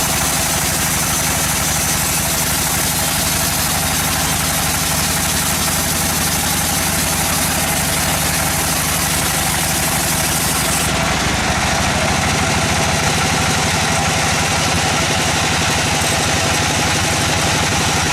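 Sawmill machinery's engine running steadily, with a change in its sound about eleven seconds in.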